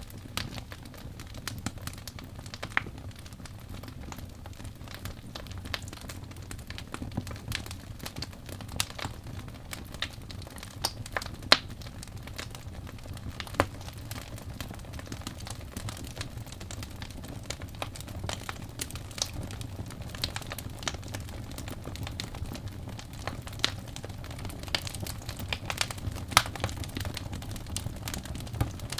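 Wood fire crackling and popping: a steady low rumble of burning with irregular sharp snaps, several a second, a few of them louder pops.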